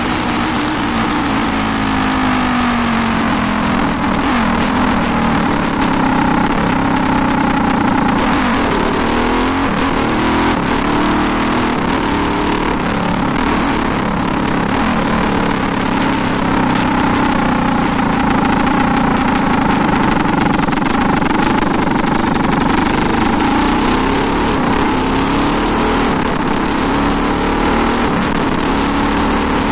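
A 400cc motorcycle engine running continuously, its revs rising and falling again and again as the throttle is worked.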